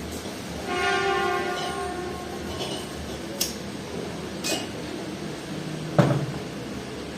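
A metal part is knocked and rings for about a second, followed by a few light metallic clicks and a heavier knock near the end, as metal parts are handled during work on a refrigerator compressor.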